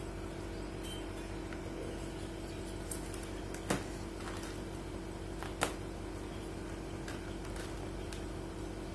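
Steady low room hum with a faint held tone, broken twice by a short click, the two clicks about two seconds apart.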